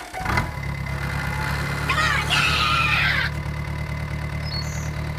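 An engine idling steadily, starting about half a second in, with a brief higher sound of gliding pitch over it about two to three seconds in.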